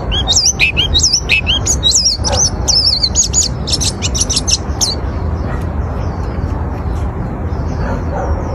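White-eye (pleci) singing a fast, twittering song of quick high notes sliding up and down, which stops about five seconds in, leaving only faint chirps. A steady low hum runs underneath.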